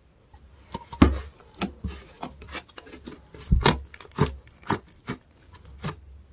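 Hands squeezing and poking slime, giving a string of irregular sharp clicks.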